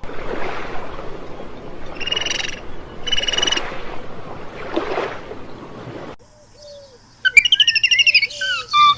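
Birds calling: two short calls over a steady rushing noise. After a sudden cut, a second recording has varied warbling song with short low calls repeating beneath it.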